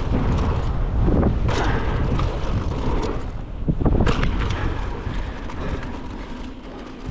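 Mountain bike riding fast down a dirt jump trail: wind rushing over the microphone and tyres rolling on dirt, with a few knocks and rattles from the bike about a second and a half in and again around four seconds in. It gets quieter toward the end.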